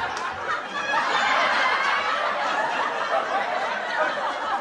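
Audience laughter from a laugh track: many people laughing together at an even level, with no single voice standing out.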